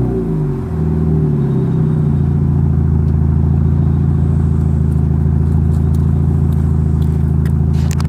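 2013 Dodge Dart's exhaust, a Thrush glasspack feeding dual straight pipes, falling back from a rev in the first second, then settling into a steady idle rumble. A few sharp clicks come near the end.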